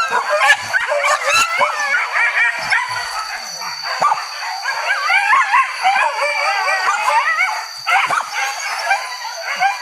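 A pack of boar-hunting dogs barking and baying at once, many high wavering voices overlapping without a break.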